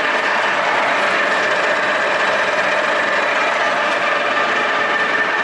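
Machine tool's spindle gearbox running steadily at a low spindle speed, a dense gear-driven mechanical noise with a steady whine.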